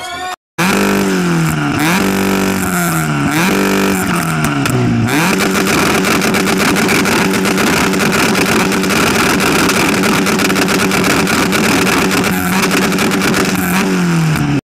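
Car engine revved hard: its pitch swings up and down about four times, then is held at steady high revs for about nine seconds before dropping. The sound cuts off suddenly.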